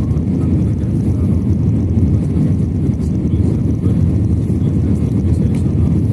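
Airbus A321 airliner on its landing approach: a steady, loud, low rumble of engine and airflow noise that holds even throughout.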